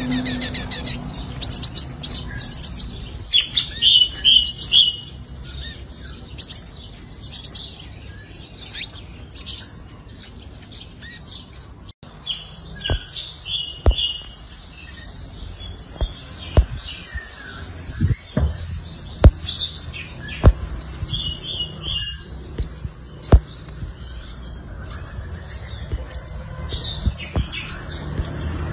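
Sunbird singing: fast, high-pitched twittering chirps and trills in quick runs, with a short lull in the middle. From about halfway, a series of sharp clicks cuts in between the phrases.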